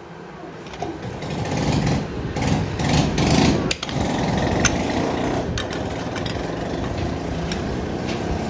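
Workshop machinery running, with sharp metallic clicks and knocks over it; the noise builds over the first two seconds and settles into a steady run about four seconds in.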